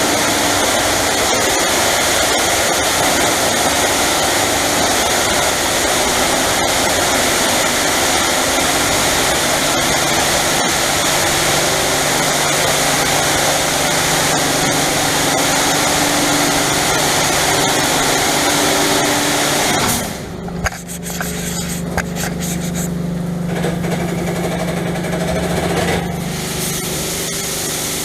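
Christ Varius touchless car wash gantry spraying water at high pressure onto a car, a steady hiss over the hum of its pump and motors. About twenty seconds in the spray cuts off abruptly, leaving the machine's steady hum, and the sound changes again a few seconds before the end.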